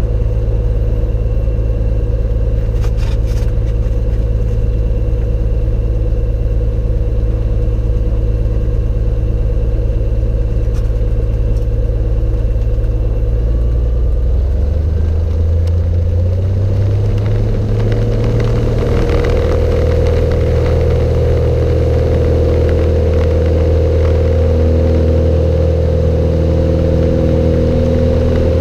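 Cessna 182's piston engine and propeller running steadily at low speed. Between about halfway and two-thirds of the way through, the engine rises in pitch as the power comes up, then holds steady at the higher speed.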